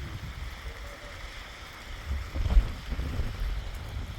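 Low, rumbling wind noise, with a single louder thump about two and a half seconds in.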